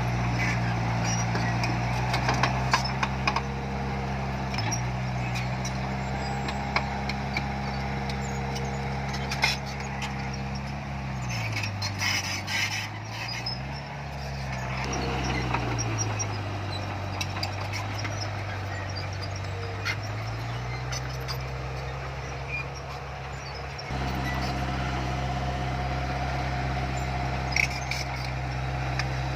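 Diesel engine of heavy earthmoving machinery running under load, its engine speed sagging a little under halfway through, staying lower for several seconds, then picking back up, with scattered clanks over it.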